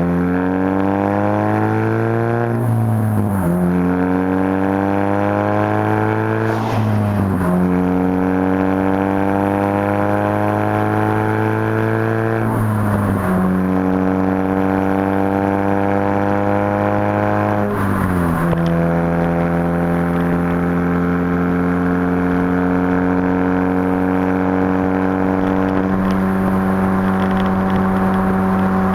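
2004 Mini Cooper's 1.6-litre Tritec four-cylinder through a straight-pipe exhaust, accelerating up through the gears: the pitch climbs in each gear and drops sharply at four upshifts, with each gear held longer than the last, then holds steady at a constant cruise for the last ten seconds or so.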